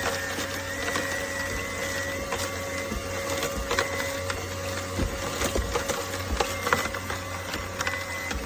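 Cold-press slow juicer's motor running steadily, with irregular cracks and crunches as produce is crushed.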